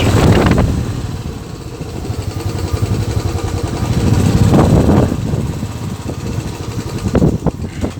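Royal Enfield motorcycle engine running under way, with louder swells of noise near the start, about four and a half seconds in and again about seven seconds in.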